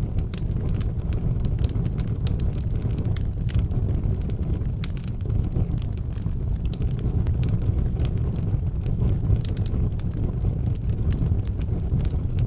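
Wood fire burning in an outdoor fireplace: a steady low roar of flames with frequent, irregular sharp crackles and pops.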